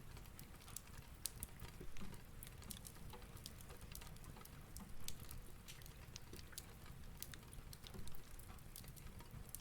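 Cozy ambience bed of a crackling fireplace with soft rain: scattered small pops and clicks over a low steady rumble.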